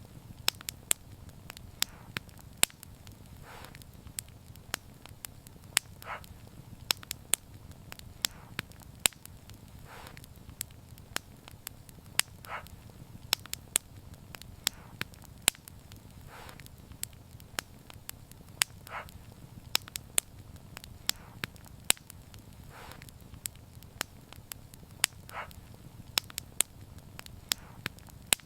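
Wood fire crackling, with many sharp pops and snaps over a low steady rumble of the flames. A softer short sound recurs every two to four seconds.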